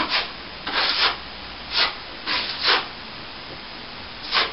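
A plastering tool scraping over a plaster ceiling in about six short, irregular strokes.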